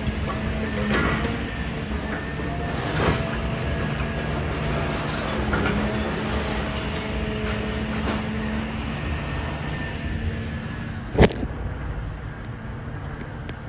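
Idromec T 650 CLS hydraulic scrap metal shear baler working: a steady machine hum with scattered metal knocks, and one loud sharp bang about eleven seconds in.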